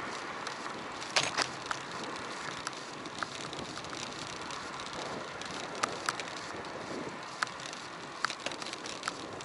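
Bicycle riding heard through an action camera: a steady hiss of tyre and wind noise, with irregular sharp clicks and rattles from the bike, the loudest about a second in.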